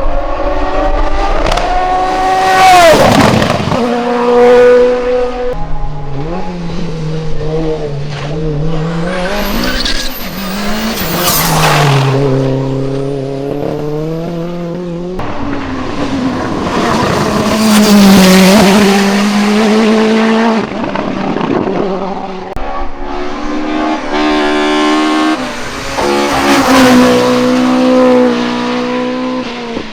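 Racing cars climbing the hill one after another, engines revving high and dropping back in pitch with each gear change and corner, loud as each car passes.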